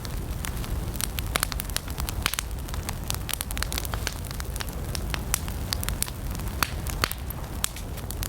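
Wood campfire burning, with a steady low rumble under frequent, irregular sharp crackles and pops.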